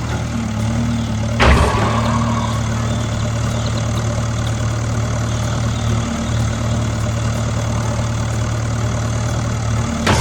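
Engine idling steadily with a low, even hum. A single sharp knock sounds about a second and a half in.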